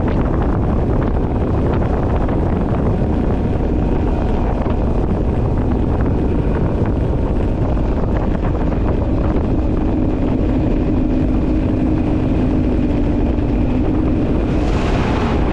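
Two-stroke outboard motor running hard as the speedboat planes, its steady engine note buried under heavy wind buffeting on the microphone.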